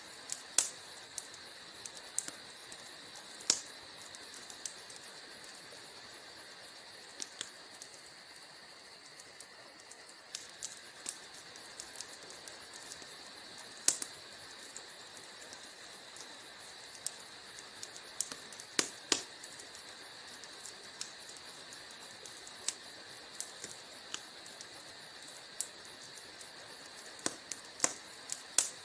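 Wood fire crackling in a fireplace: a soft steady hiss under dense tiny crackles, with irregular sharp pops scattered through, a handful of them much louder than the rest.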